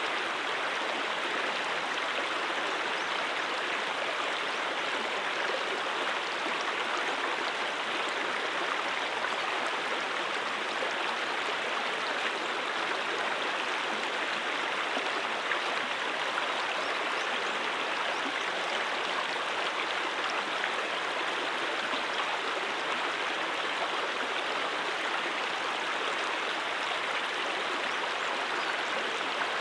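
Flowing stream water: a steady, even rush without pauses or changes.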